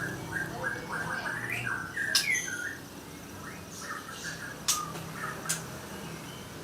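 White-rumped shama (murai batu) singing: a quick run of short, varied whistled notes, some gliding up or down, with a few sharp clicks among them.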